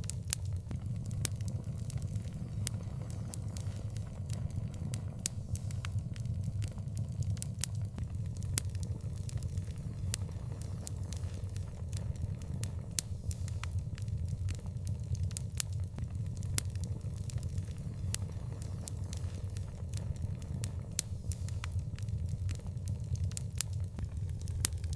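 Outdoor fire crackling: frequent sharp, irregular pops over a steady low rumble of the flames.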